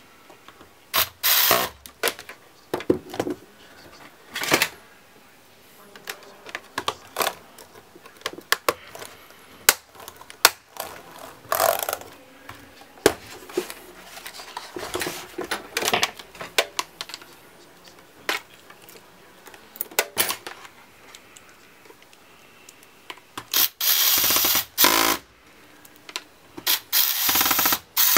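Laptop parts being handled: a run of scattered plastic clicks, taps and short scraping rustles. Two longer scraping stretches come near the end.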